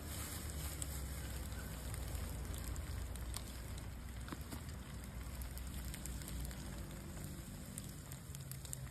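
Campfire crackling: a steady hiss with scattered sharp pops over a low rumble.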